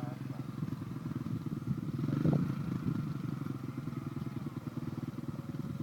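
Dirt bike engine running steadily, with a brief louder moment about two seconds in.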